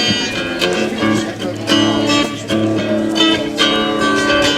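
Guitar strumming chords, a stroke about every half second, with no singing.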